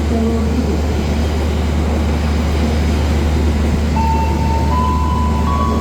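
Steady running noise of the Gaya Baru Malam Selatan passenger train heard from inside a carriage: a constant low rumble with rail and wheel hiss. A thin tone rises in small steps over the last couple of seconds.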